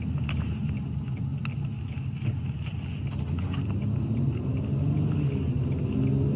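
Police patrol car's engine and road noise heard from inside the cabin while driving, a steady low rumble. The engine note rises near the end as the car speeds up.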